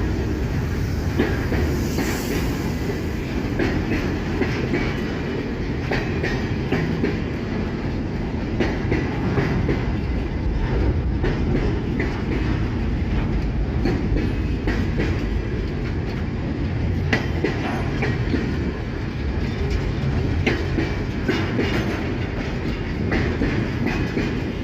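Empty freight train rolling past with a steady low rumble, its wheels clattering over the rail joints in irregular clicks.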